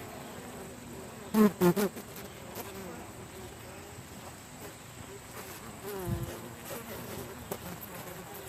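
Honey bees buzzing steadily around an open hive. About a second and a half in, a duck quacks loudly a couple of times in quick succession.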